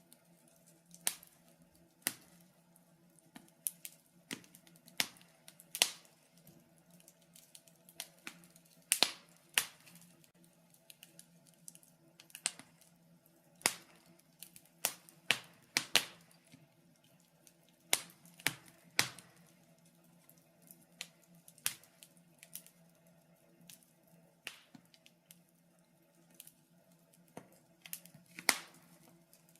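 Wood fire crackling in a fireplace: irregular sharp pops and snaps, spaced from a fraction of a second to a couple of seconds apart, over a faint steady low hum.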